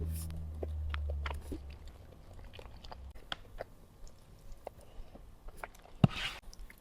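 Close-miked chewing and biting of food, with scattered small wet mouth clicks. A low hum fades out in the first second and a half, and about six seconds in a sharp thump is followed by a short rustling burst.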